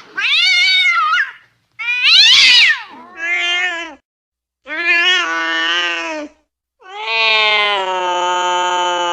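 Domestic cat yowling angrily in a run of five drawn-out calls. The first two rise high and fall, and the last is a long, low howl that starts about seven seconds in.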